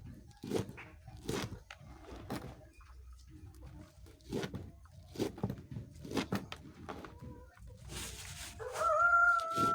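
Chickens in a poultry house making short, separate clucks and calls, then near the end one bird starts a long, steady call.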